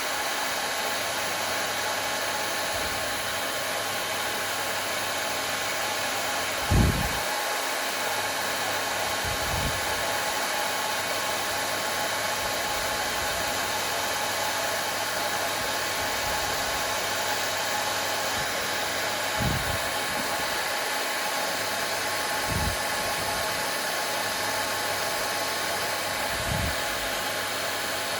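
Hair dryer running steadily: an even rushing of air with a steady motor whine. A few brief low thumps break through it, the loudest about seven seconds in.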